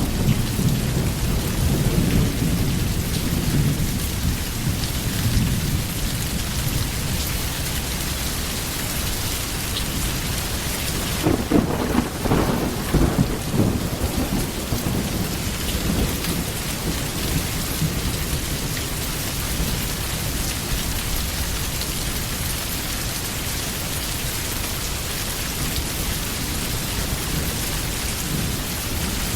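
Steady heavy rain with rolling thunder: a low rumble at the start and a louder peal about eleven seconds in that crackles and fades over a few seconds.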